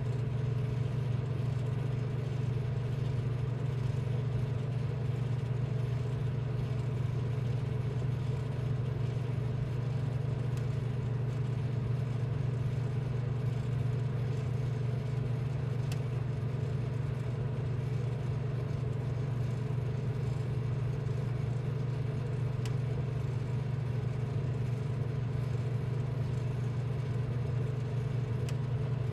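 A steady, unchanging low machine hum with fainter higher tones above it.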